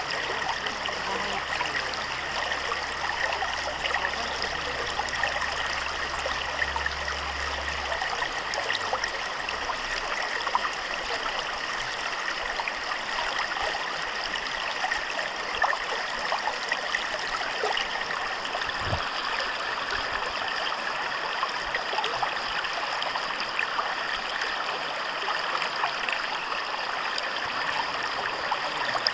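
Natural mountain stream flowing: a steady rush and babble of water with small splashes flickering through it. A faint low hum under it stops about eight seconds in.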